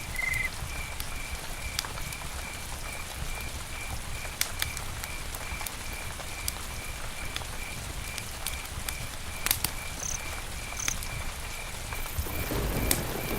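Campfire crackling, with scattered sharp pops and snaps over a low steady rumble of burning wood. A steady chirping runs underneath, about two chirps a second.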